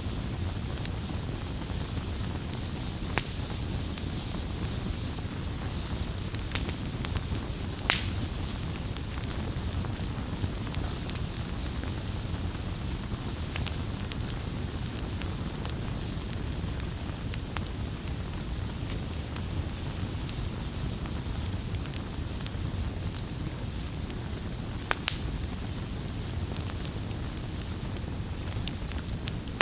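Wood campfire crackling: a steady low rumble of burning with many small scattered ticks and a handful of louder, sharper pops spread through.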